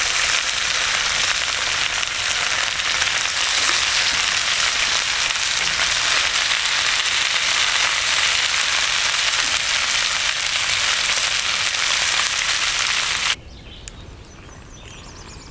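Fish frying in a pan, a loud steady sizzle with fine crackling that cuts off abruptly about 13 seconds in, leaving a much quieter background.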